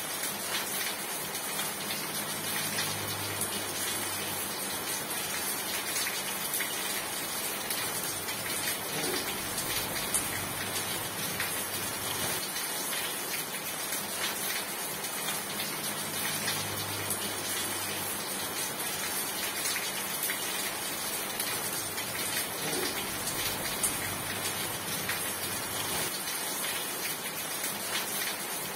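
Steady rain falling, with scattered sharp clicks of individual drops.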